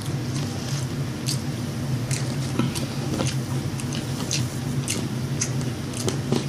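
Close-miked eating: a person chewing KFC fried chicken, with irregular wet clicks and smacks, over a steady low hum.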